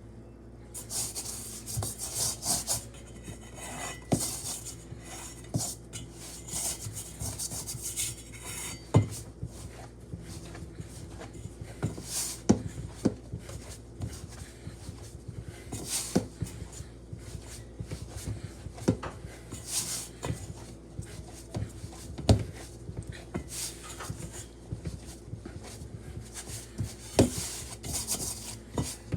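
Dough being kneaded and rolled by hand: irregular rubbing with scattered sharp knocks.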